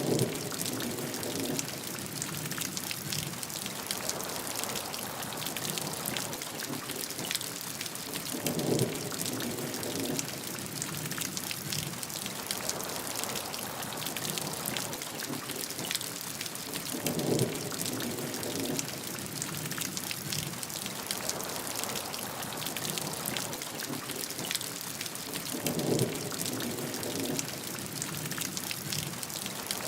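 Steady rain falling, an even hiss packed with the ticks of individual drops. A short, lower swell comes four times, about every nine seconds, as if the recording repeats.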